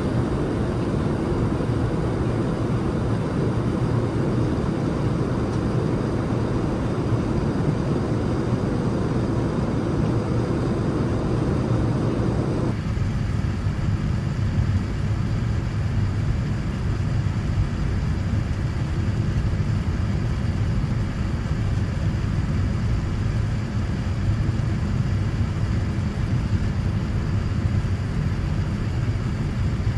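Steady cabin noise of a Boeing 787-9 airliner: a low rumble with a rush of air over it. About 13 seconds in, the upper part of the noise drops away suddenly and the sound becomes duller, with the low rumble carrying on.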